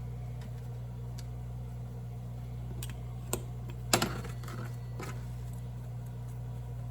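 A steady low hum with a few scattered light clicks and taps, the sharpest about four seconds in.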